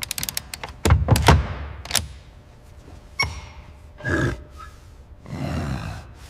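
Hardware being fitted and fastened: a quick run of sharp clicks, then heavy thunks about a second in and another around two seconds, a short metallic ring near the middle, and a swelling rush of noise near the end.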